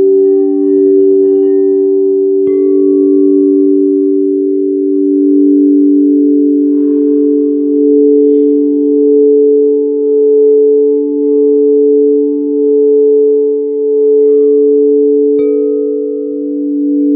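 Several singing bowls ringing together in long, steady tones that pulse slowly in loudness. A bowl is struck about two and a half seconds in and another near the end, each adding a higher tone to the ringing.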